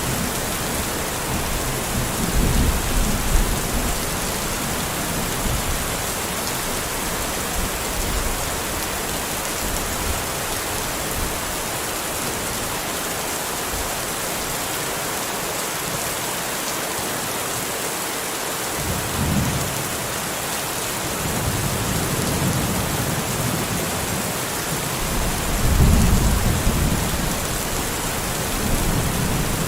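Steady rain falling, with low rumbles of thunder rolling in near the start, again about two-thirds of the way through, and loudest near the end.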